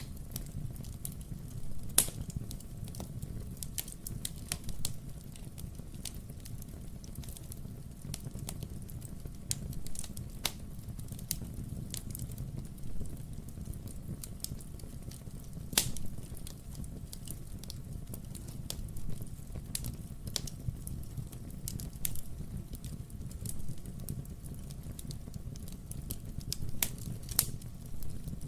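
Wood fire in a fireplace crackling, with a steady low rumble and irregular sharp pops, two of them louder, about two seconds in and near the middle.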